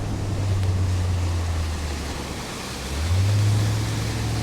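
Motorboat engine running at speed over wind and water noise; its pitch sags over the first couple of seconds, then jumps back up about three seconds in.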